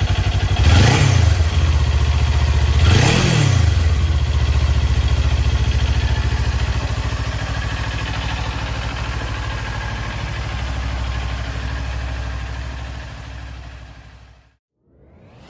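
Kawasaki Ninja 400 (2018) parallel-twin engine idling, with two quick throttle blips about one and three seconds in. It then settles back to a steady idle, and the sound fades out near the end.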